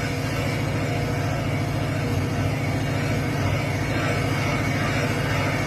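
Valve seat cutting machine running steadily, machining the hardened exhaust valve seats in a Ford 390 FE cylinder head down to a set height.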